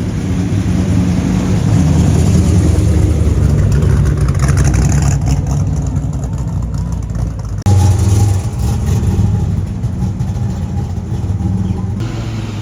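Car engines running with a loud, deep rumble, cut sharply about two-thirds of the way in to another engine sound.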